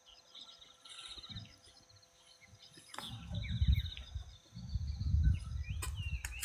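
Small birds chirping and trilling, with short rising and falling calls. From about three seconds in, a louder low rumbling noise comes in waves, with a few sharp knocks.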